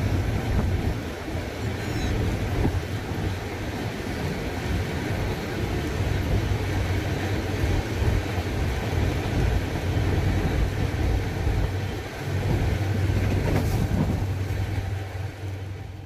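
Running noise of a passenger train, heard from inside a carriage: a steady low rumble of wheels on the track and the carriage in motion.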